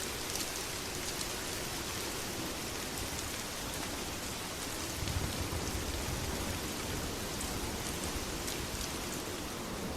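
Steady heavy rain, with scattered sharp ticks through it and a brief low rumble about five seconds in.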